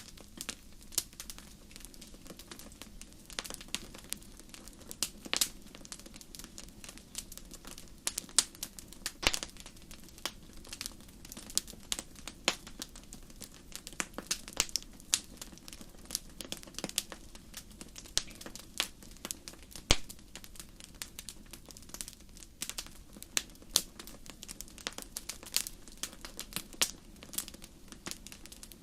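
Wood fire crackling in a fireplace: frequent sharp, irregular pops and snaps over a soft steady rush of flame.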